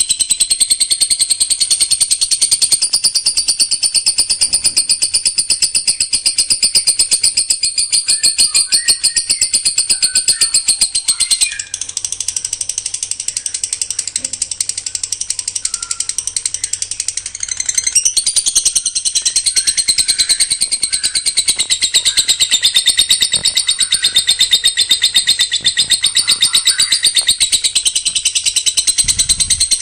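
A songbird pouring out a continuous rapid-fire string of high, sharp notes, a dense machine-gun-like trill ('tembakan rapat'). It eases off a little for several seconds in the middle, then comes back at full strength.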